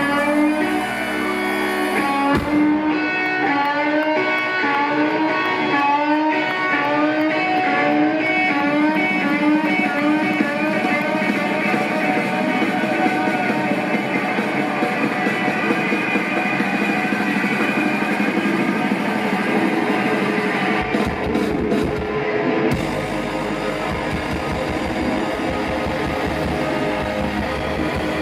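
Live rock band playing an instrumental passage: electric guitars over a drum kit, with a repeating guitar figure that gives way to a denser, steadier sound about three-quarters of the way through.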